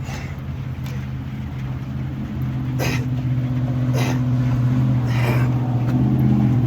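Hard breathing from a man mid-burpee: three sharp, hissy breaths about a second apart. Under them runs a steady low motor hum that grows louder about halfway through.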